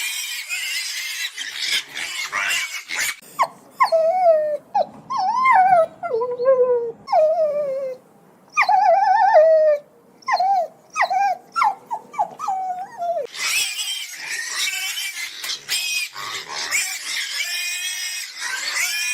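Animal vocalising: harsh, high-pitched squealing at the start and again from about 13 seconds in. In between comes a run of short, pitched yelps or whines, each falling in pitch.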